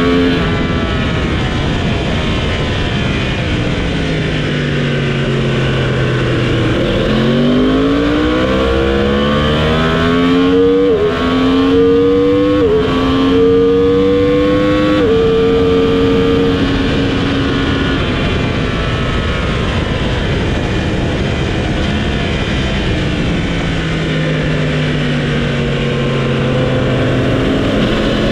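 Motorcycle engine on track, heard from on the bike. It slows down, then accelerates hard through three quick upshifts a few seconds apart and holds speed. It slows again and picks up at the very end, over a steady rushing noise.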